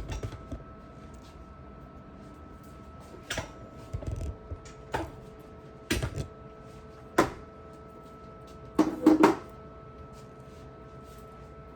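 Scattered knocks and clatters of containers, shelves and dishes being handled and set down, about eight sharp strikes with a quick cluster of three near nine seconds in, over a faint steady hum.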